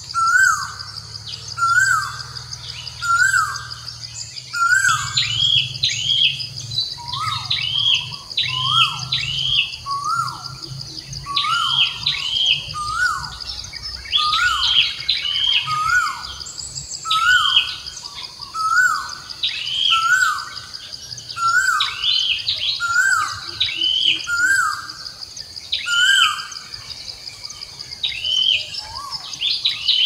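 Birds calling over and over with short notes that slide downward, one or two a second, over a steady high-pitched drone.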